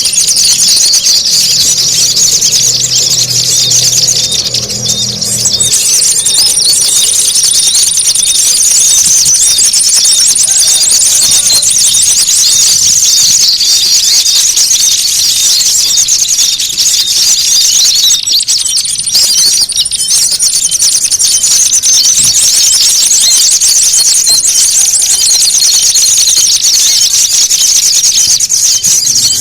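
A dense, loud din of many small birds' fast, high-pitched chattering and scolding calls overlapping without a break: a bird-lure call track of agitated, fighting small birds used to draw in small birds. A thin steady high whistle comes and goes above it.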